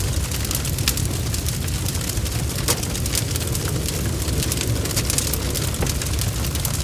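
Wood fire crackling, with many sharp crackles over a steady low rumble of flames, and rain pattering.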